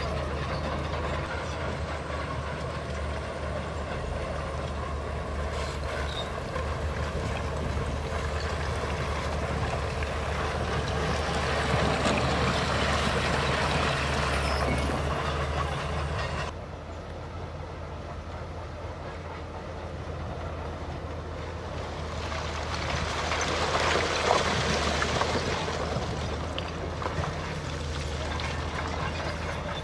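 Heavy diesel earthmoving machinery at work: a steady low engine drone under a dense, rough mechanical noise. The sound drops abruptly about halfway through, then builds up again and peaks a few seconds before the end.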